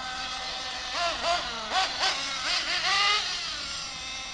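Small nitro RC buggy engine revving in short blips, its high-pitched whine rising and falling several times as the throttle is opened and closed.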